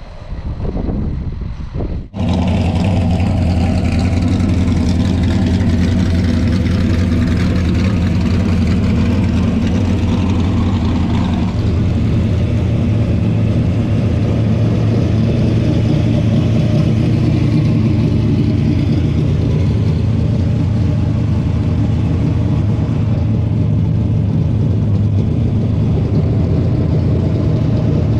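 Racing car engine running hard at steady high revs, with small rises and falls in pitch. It starts abruptly about two seconds in, after a quieter, shifting sound.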